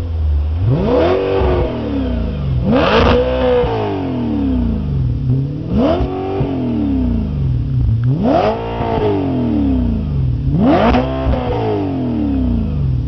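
Supercharged 4.2-litre V8 of an MTM-tuned Audi B7 RS4 Clubsport, revved five times while standing still, each rev climbing quickly and falling back to idle, about every two and a half seconds.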